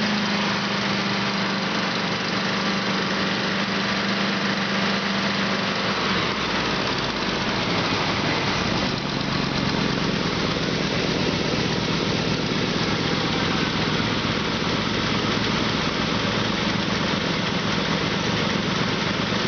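Used 1997 Ford F-150 engine being test-run, running steadily at about idle. About six seconds in its note shifts and a deeper rumble fills in.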